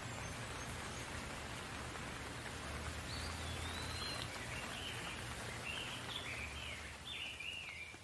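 Steady rain falling, an even hiss, with a low hum beneath it. From about three seconds in, a bird sings a string of short, high, warbling notes over the rain.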